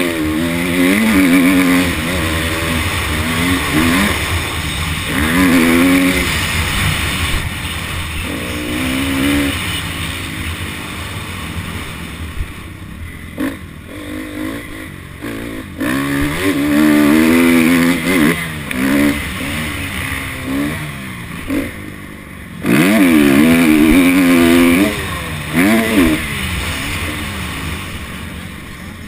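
Honda CRF250 dirt bike's single-cylinder four-stroke engine revving up and backing off over and over as it is ridden on a motocross track, with a quieter stretch about halfway through.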